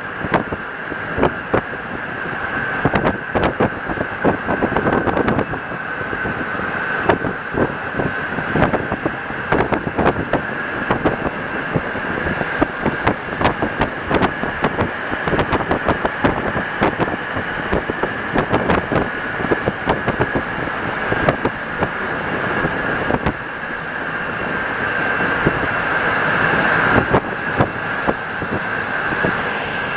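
Santiago Metro NS-74 train running, with a steady high whine and frequent knocks and rattles throughout, growing louder near the end.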